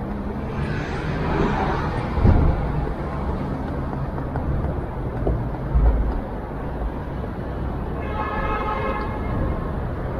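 Steady street traffic rumble with a vehicle passing in the first couple of seconds and two low thumps. About eight seconds in comes a short horn-like toot lasting about a second.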